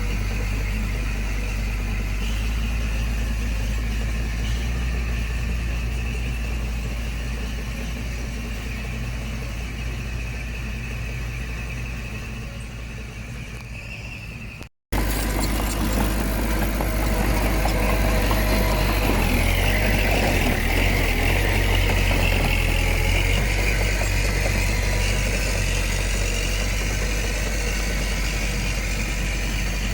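Engine of a dump truck or bulldozer running steadily and fading slightly, then cut off by a short break about halfway; after it an engine runs louder, its pitch shifting for a few seconds before settling.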